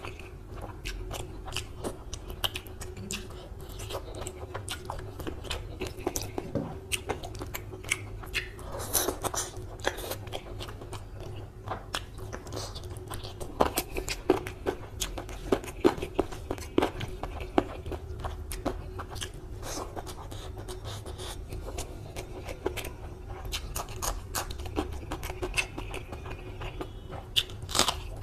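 Close-miked chewing and biting of spicy chicken curry and rice eaten by hand: a continuous run of short, wet mouth clicks and smacks with occasional crunches.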